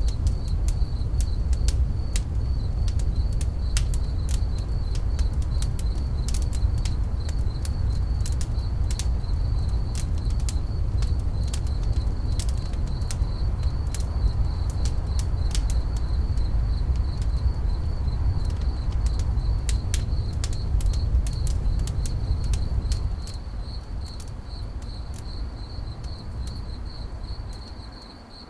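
Campfire crackling with scattered sharp pops, over a cricket chirping steadily in a fast, even pulse. A low rumble underlies it and drops away about 23 seconds in.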